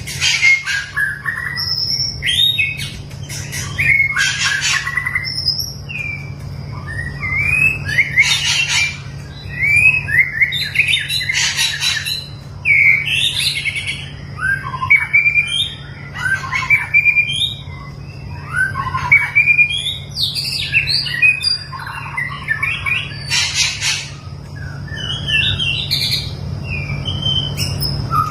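White-rumped shama singing a long, varied run of whistled phrases and chirps, broken every few seconds by short harsh notes. A steady low hum runs underneath.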